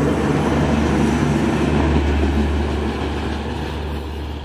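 Maitree Express passenger coaches rolling past on the rails and moving away, with a steady low hum under the running noise. The sound fades over the last second and a half as the final coach leaves.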